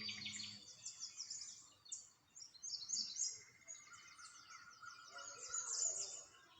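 Many small songbirds chirping and twittering together in a dense, continuous chorus of quick high-pitched notes.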